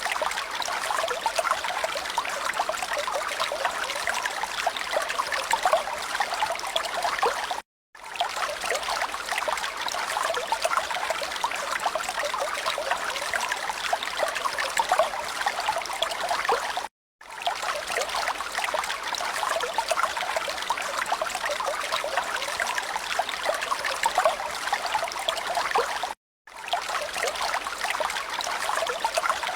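Trickling, running water, a steady babbling with no pitched calls in it. It plays as a loop that cuts out to silence for a moment about every nine seconds, three times.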